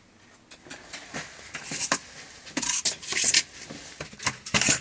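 Flux-core arc welding with a Parkside PMSG 200 wire-feed welder: the arc crackles and sputters in a few short starts and stops of a second or less, with scattered clicks between.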